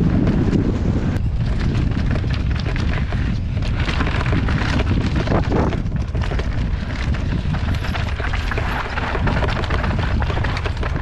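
Wind buffeting an action camera's microphone over the rumble of mountain bike tyres on a rough downhill dirt trail, with the bike rattling and knocking over bumps.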